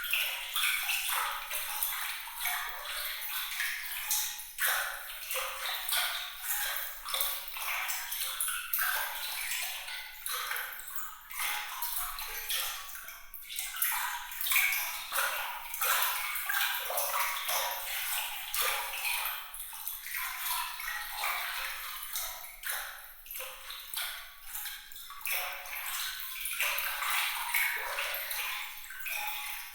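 Water trickling and splashing without a break, full of quick bright droplet plinks, with no low rumble.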